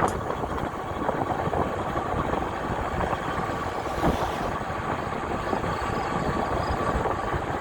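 Riding noise from an e-bike on a wet road: a steady rumble and hiss of tyres and wind, with a faint steady high whine that fades out near the end.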